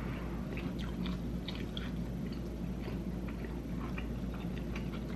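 A person biting and chewing a quesabirria taco up close, with many small mouth clicks and smacks, over a steady low hum.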